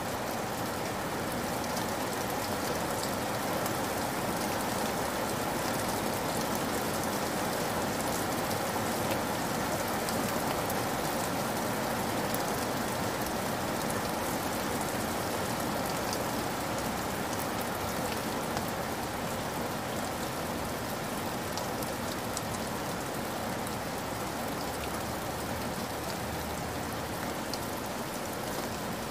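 Heavy rain falling steadily and splashing on wet ground: an even hiss sprinkled with the ticks of individual drops.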